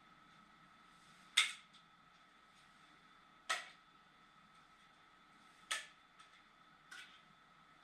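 Sharp clicks or knocks, three loud ones about two seconds apart and a fainter one near the end, over a faint steady whine.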